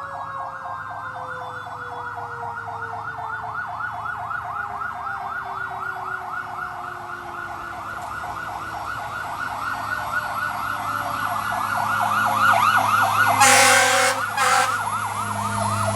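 Fire engine electronic siren on a fast yelp, with a Federal Q mechanical siren winding down, its pitch slowly falling underneath. The sound grows louder as the truck approaches, with two short loud blasts near the end.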